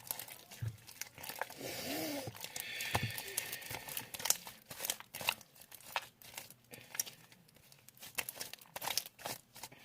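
Homemade glue slime being kneaded and stretched by hand, making irregular sticky crackles and popping clicks as it pulls apart.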